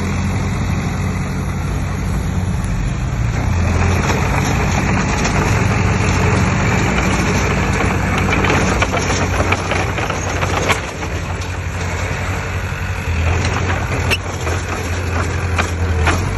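Diesel engine of a bulldozer or dump truck running steadily, with scattered clanks and knocks in the second half.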